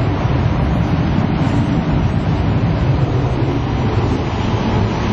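Steady low rumble and hiss of an E5 series Shinkansen running, heard inside the vestibule by the GranClass door.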